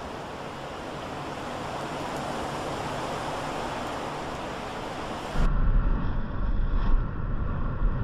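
Added wind sound effect: a steady rushing noise that swells slowly. About five seconds in it cuts suddenly to the louder low rumble of a car's road noise and wind buffeting the microphone.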